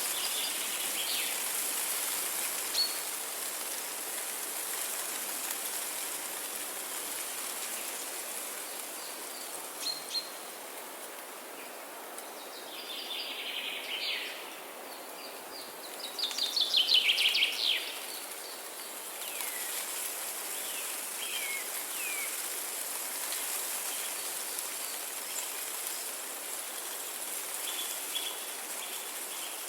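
Songbirds calling over a steady hiss of running water. Scattered chirps and short downward whistles come throughout, with the loudest a fast run of descending chirps a little past the middle.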